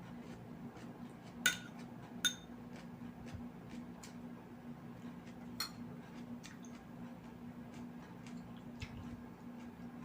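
Cutlery clinking against a plate: two sharp ringing clinks about a second and a half in and just after two seconds, and another near the middle, with faint small clicks of eating in between over a steady low hum.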